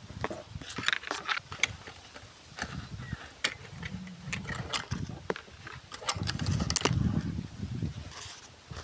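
Irregular rustling and crackling with many sharp clicks and a few low thumps.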